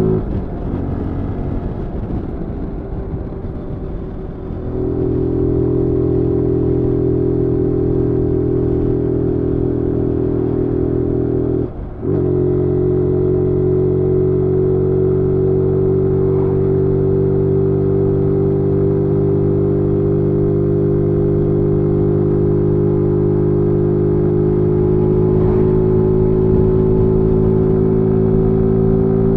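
2022 Zontes G1 125 Scrambler's single-cylinder 125 cc engine running under way. It is softer and unsteady for the first few seconds, then pulls at steady revs. About twelve seconds in there is a brief break in the engine note, and the revs creep up slightly near the end.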